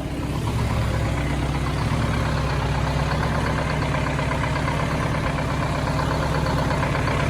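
1971 Insley excavator's diesel engine running at a steady idle, growing a little louder over the first second.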